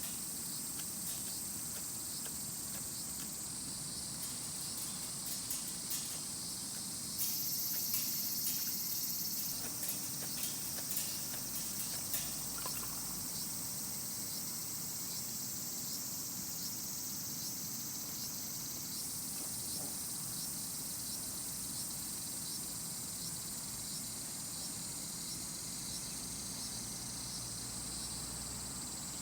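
Crickets and other night insects chirring steadily in a high, dense drone, with scattered small clicks in the first half.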